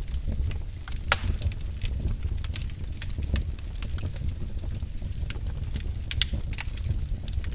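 Wood fire burning in a fireplace: irregular crackles and sharp pops over a low steady rumble of the flames, with a loud pop about a second in and another about six seconds in.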